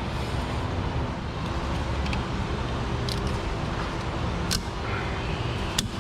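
A steady low rumble with a faint steady hum, broken by a few sharp metallic clicks about four and a half seconds in and near the end.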